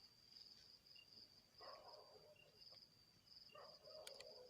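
Faint crickets chirping in a steady, fast pulsing trill, with two faint brief soft noises a couple of seconds apart.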